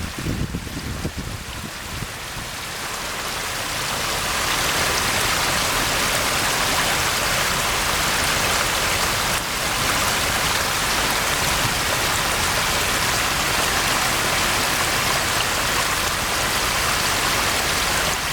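Heavy rain falling, a dense steady hiss that swells over the first few seconds and then holds even.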